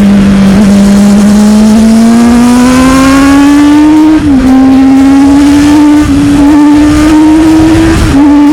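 Sport motorcycle engine heard onboard while riding. The revs climb slowly and steadily, dip briefly about four seconds in, then hold steady, with another short dip near the end, over a steady rush of wind and road noise.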